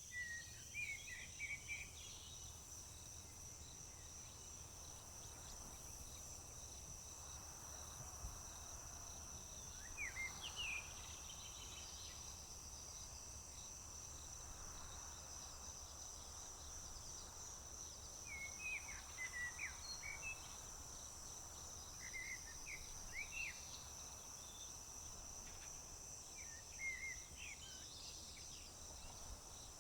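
A steady, high, pulsing chorus of crickets, with a songbird singing short chirping phrases every few seconds, at the start, about ten seconds in, and several times in the second half.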